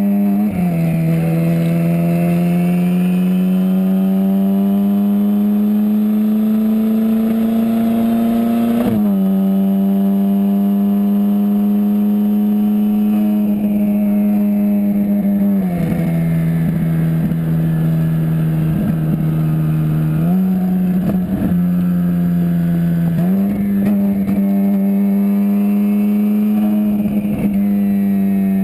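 Hennessey HPE700 twin-turbo Ferrari 458 Spider's V8 running steadily under load, its pitch creeping slowly upward and dropping suddenly at gear changes, about a third of the way in, just past halfway and near the end, with two sudden rises in between.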